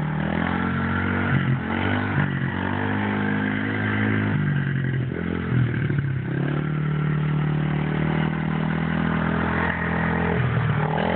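A child's dirt bike engine running at low to moderate revs, its pitch rising and falling several times as the throttle is opened and eased off.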